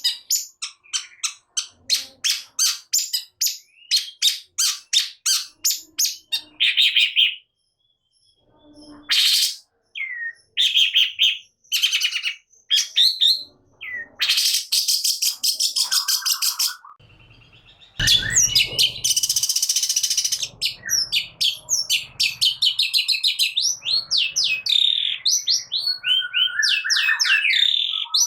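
Long-tailed shrike (cendet) singing hard: a fast run of sharp repeated notes at about four a second, then broken phrases after a short pause. Partway through, a brief rushing noise comes in, and the song turns into a dense stream of quick, varied chattering notes.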